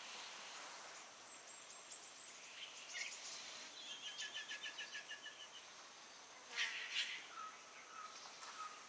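Faint wild birds calling over a steady background hiss: a rapid trill of about ten notes a second midway, two short loud calls about two-thirds of the way through, and a few soft whistled notes near the end.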